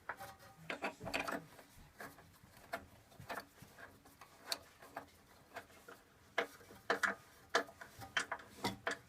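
Hand tools working the fixing bolts of a flue flange on a cast-iron stove: irregular sharp metallic clicks and ticks as the bolts are tightened.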